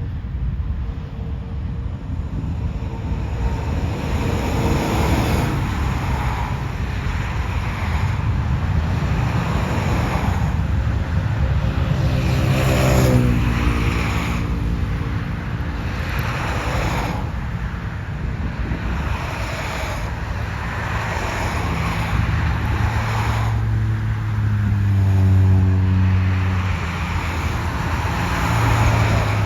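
Jet airliner engines running loudly and continuously, mixed with cars passing on a road. A stack of tones falls in pitch about halfway through and again near the end, as something passes by.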